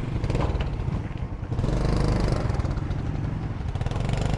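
Motorbike engine running at low speed, a steady low hum that grows a little louder about one and a half seconds in.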